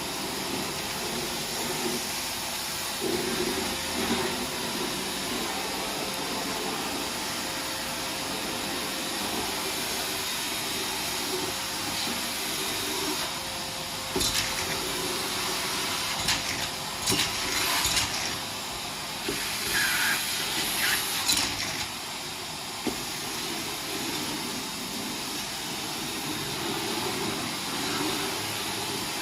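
Vacuum cleaner running steadily with a constant motor whine, with a stretch of crunchy rattling and clicking in the middle as debris is sucked up.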